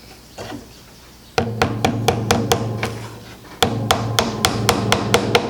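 A hammer tapping a small nail into a wooden beehive frame: a quick run of about six light taps about a second and a half in, then after a short pause a longer run of about nine taps, each ringing briefly.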